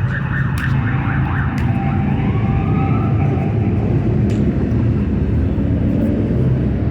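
Steady low rumble of nearby motor-vehicle traffic. A brief rising-and-falling tone, like a distant siren, comes about halfway through, and a few sharp knocks stand out above the rumble.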